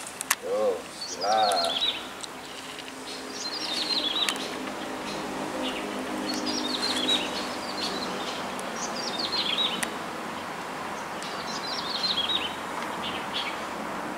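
A small bird singing a short, high, falling phrase over and over, about every two to three seconds, with a faint steady hum underneath.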